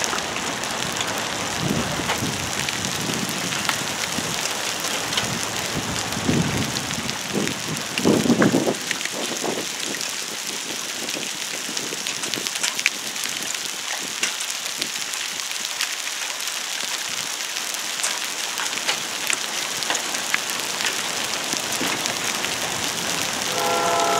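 Steady rain falling, a constant hiss with many small drops tapping close by. A low rumble comes and goes over the first several seconds and is loudest about eight seconds in.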